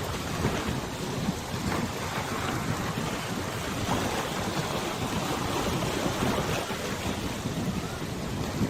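Wind on a wide river buffeting the microphone, with water washing and lapping underneath: a steady rushing noise with no distinct events.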